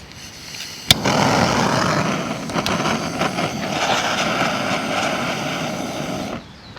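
Gas torch burner lit with a click about a second in, then burning with a loud, steady rush for about five seconds before cutting off.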